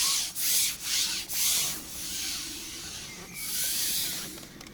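A fishing pole being pushed out hand over hand, its sections sliding and rubbing: a few strokes about two a second, then a longer slide near the end.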